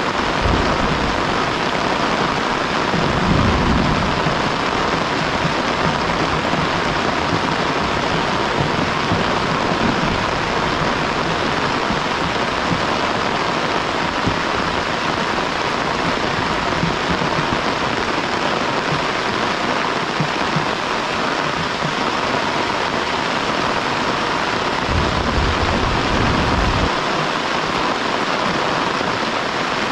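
Heavy rain falling steadily, with two brief low rumbles, about three seconds in and again near the end.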